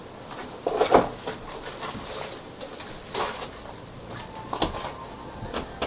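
Rummaging clatter of parts and packaging during a search, with sharper knocks about one and three seconds in. From about four seconds in, a faint steady tone comes in, the chime of an ice cream van in the distance.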